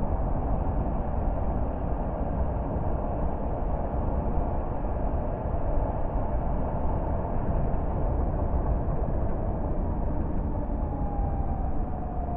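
Car driving along the road: a steady rumble of tyre and engine noise, with a faint tone falling in pitch near the end.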